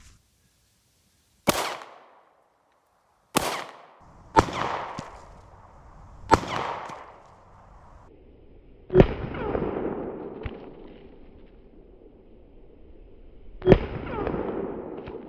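Six pistol shots from a Sig Sauer P365 compact 9mm, fired at irregular intervals a second or more apart, the later ones trailing off in a long echo.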